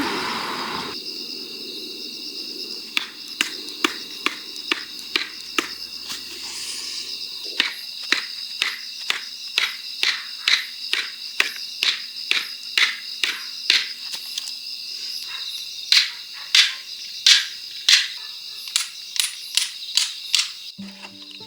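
Firewood being split by hand: a long run of sharp knocks, about two a second, as a blade is struck into the wood along the grain, loudest near the end. Crickets chirp steadily underneath.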